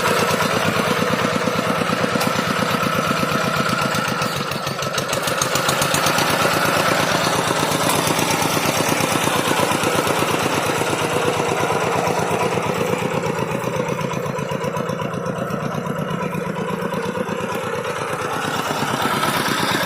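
Tractor engine running steadily with a fast, even beat of firing strokes.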